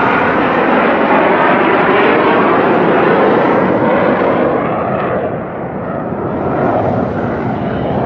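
Military jets of the Blue Angels, F/A-18 Hornets, flying past with loud, continuous jet engine noise. The noise eases a little about five seconds in and swells again near the end.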